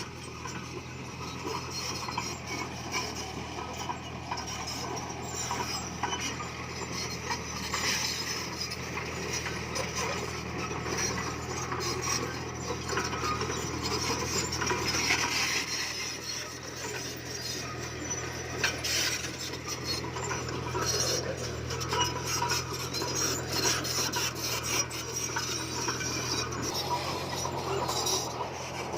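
Komatsu bulldozer's diesel engine running steadily under a continuous grinding, scraping clatter of its tracks and the stone it is pushing.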